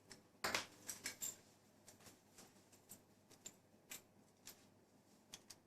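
Faint rustling of silk cloth and scattered light clicks as a belt is put around a wrapped dress, louder about half a second and a second in.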